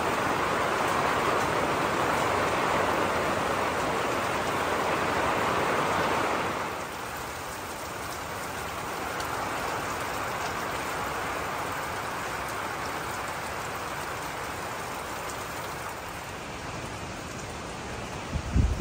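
Steady rain falling, heavier for the first six or so seconds, then softer and even. A few low thumps come near the end.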